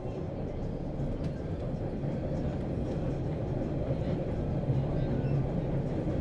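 Subway train running: a steady low rumble with a low hum, growing a little louder toward the end.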